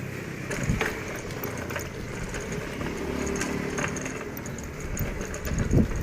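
Bicycle being ridden over a rough road: a steady rolling rumble from the tyres and frame, with two louder jolts from bumps, one near the start and one near the end.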